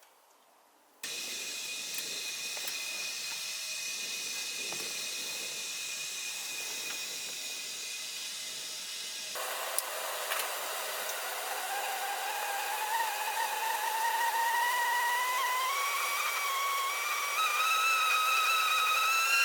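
Whistling kettle coming to the boil: a steady hiss of steam, then from about halfway a whistle that climbs steadily in pitch and grows louder.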